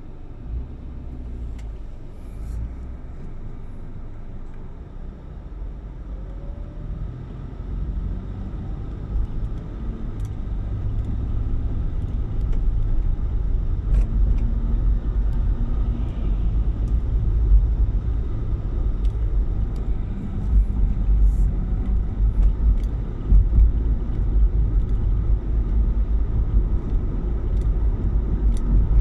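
Car on the move: a steady low rumble of engine and road noise, growing louder through the first half and then holding.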